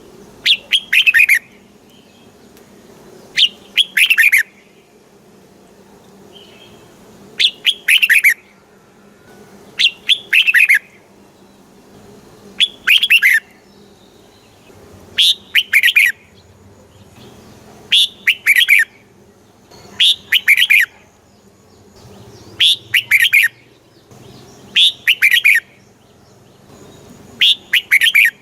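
Red-whiskered bulbul singing: a short, loud phrase of several quick whistled notes, repeated about every two and a half seconds, eleven times. This is the full-throated song that keepers play back to make caged bulbuls excited and sing.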